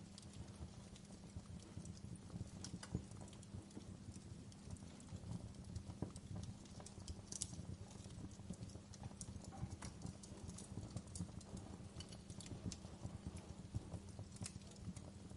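Wood fire crackling: irregular sharp pops and snaps from burning logs over a soft steady low rumble of the flames.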